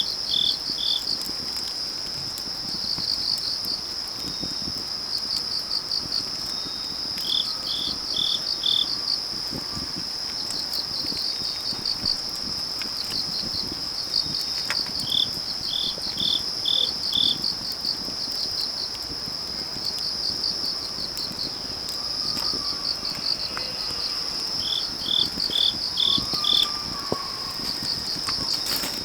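Autumn night insects: crickets and other grass insects keep up a steady high trill, with short series of four to six chirps recurring every few seconds. A wood fire crackles faintly underneath.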